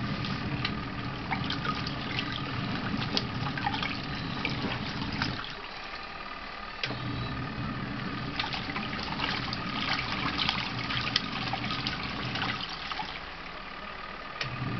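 Twin-tub washing machine running a wash, its motor humming under water sloshing in the tub. The motor stops twice for a second or two and then starts again, as the wash pulsator pauses before reversing.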